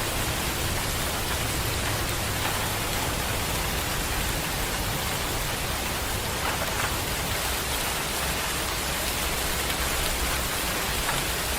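Steady, heavy rain pattering on surfaces, an even, continuous hiss.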